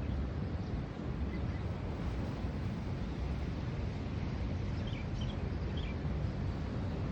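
Wind buffeting the microphone, a steady low rumble. A few faint high bird chirps come about five seconds in.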